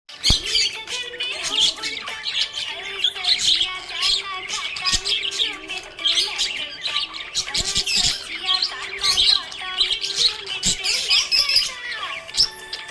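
Budgerigar warbling: a continuous stream of rapid high chirps, squeaks and chatter, the sound of a contented, happy budgie.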